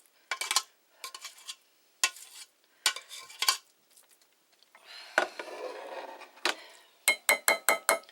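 A spoon scraping and clinking against a pot and casserole dish as cooked rice is scooped out and spread. There is a softer scraping stretch in the middle, and near the end a quick run of about six sharp, ringing clinks.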